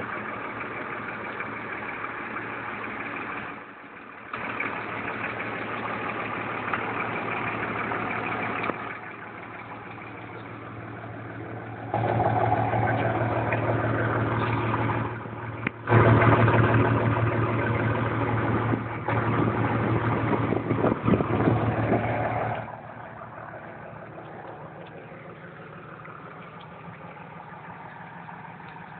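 Truck engine running at a steady idle, its loudness rising and falling in steps. There are brief drops a few seconds in and again about halfway, and it is loudest just past the middle before settling to a quieter, even idle.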